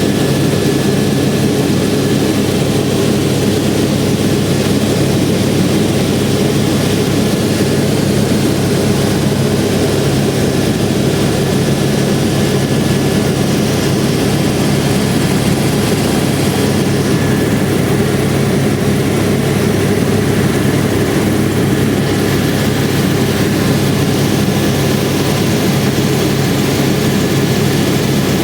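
AS350 Écureuil single-engine turboshaft helicopter in flight: engine and rotors running loud and steady, a constant low drone with a thin high whine over it.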